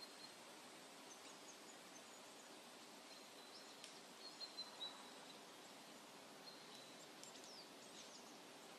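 Faint outdoor background hiss with scattered small bird chirps and a few short whistled calls, a little livelier about halfway through and again near the end.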